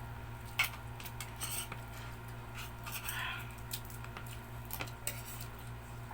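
Sounds of people eating chicken feet: scattered light clicks and clinks of dishes and cutlery, with a few soft noisy smears, over a low steady hum.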